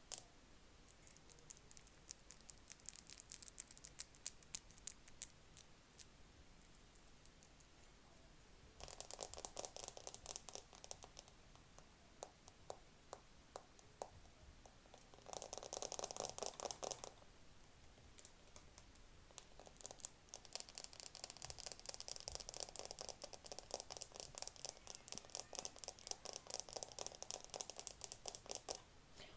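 Rapid tapping on a camera, in close-up ASMR style: scattered single taps at first, then fast runs of many taps a second, coming in three spells, the last and longest filling the final third.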